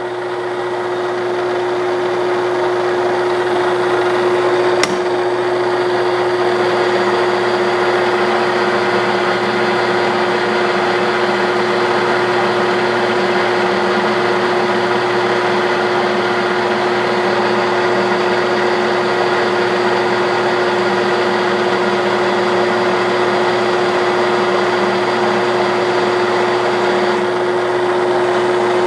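A 1967/68 Clausing Colchester 1340 metal lathe running steadily through a turning cut, with a steady mid-pitched hum over a dense machining noise. The sound builds over the first couple of seconds, and there is a single sharp click about five seconds in.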